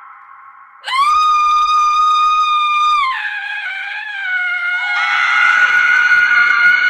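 A woman's shrill scream starts suddenly about a second in and is held on one high pitch, then drops lower and wavers; a second, fuller scream begins about five seconds in and runs on.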